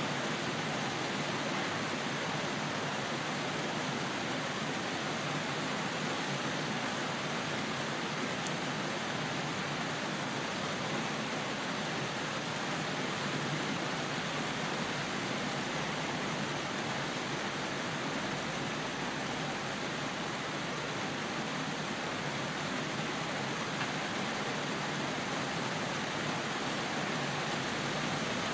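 Steady rain falling, an even hiss with no thunder or changes.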